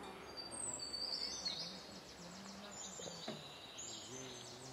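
Small birds chirping and trilling in quick high notes, over faint voices of people talking.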